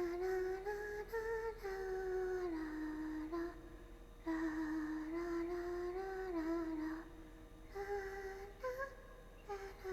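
A young woman humming a wordless tune in long, gently gliding held notes, in phrases broken by short pauses about three and a half seconds in and again near seven seconds, while drinking.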